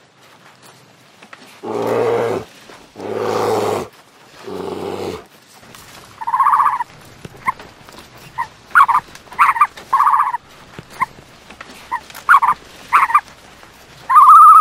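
Animal calls: three low, rough calls about a second apart, then a run of short, higher-pitched calls and one longer call near the end that rises and falls.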